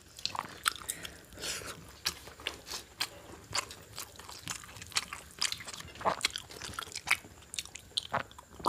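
People eating rice and beef curry, with irregular chewing and mouth smacks and small clicks throughout.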